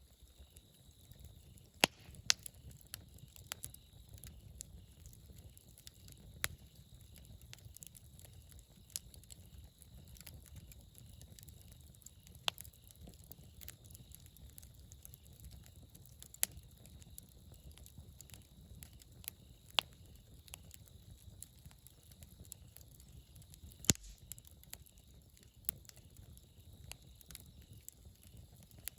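Wood campfire burning, with irregular sharp crackles and pops over a low, steady rumble of flame.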